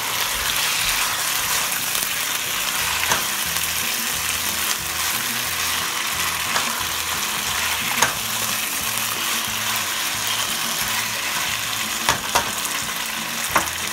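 Chicken pieces and chicken livers with onions sizzling in hot oil in a pan, a steady frying hiss. A few sharp clicks of the spatula against the pan come through it now and then.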